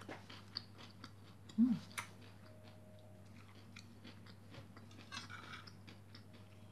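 Faint close-up chewing of a mouthful of crunchy fried rice, nasi goreng with fried anchovies, with scattered small crunches and clicks.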